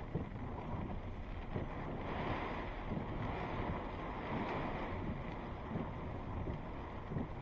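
Strong thunderstorm wind gusting and buffeting the microphone, swelling in a stronger gust in the middle.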